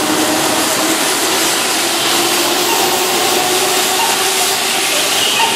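Keihan 2600-series electric train moving along the platform, a steady noise of wheels and running gear with a faint motor whine slowly rising in pitch as it gathers speed.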